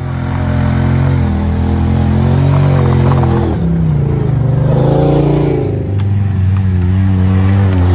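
ATV engine running under throttle, its pitch rising and falling as the rider speeds up and eases off, with clear drops in pitch about three and a half seconds in and again near the end.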